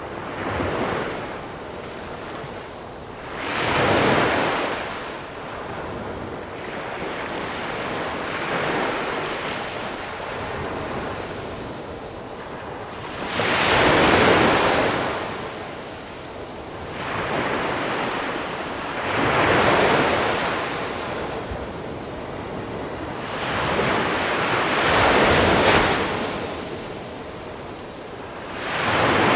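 Waves rolling in on a small-pebble beach, each one breaking and washing over the pebbles. There are about eight swells, one every few seconds, the loudest about halfway through.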